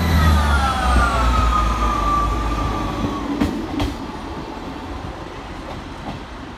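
Diesel train moving away: a whine falls steadily in pitch over the first three seconds while the engine note fades. Two sharp clicks come a little after three seconds in, then the train dies away.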